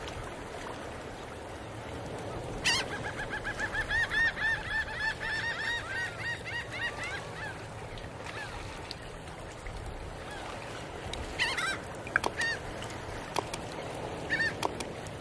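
A bird calling in a rapid run of repeated pitched calls for about four seconds, then a few shorter calls near the end.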